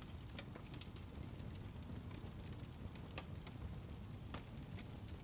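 Crackling fire: a steady low rumble with scattered sharp crackles and pops at irregular intervals.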